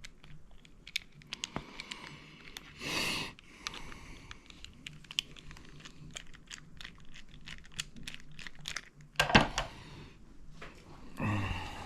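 Small ratchet parts being handled and fitted: irregular light metallic clicks and taps, with a few short louder scraping rustles about three seconds in and again near the end.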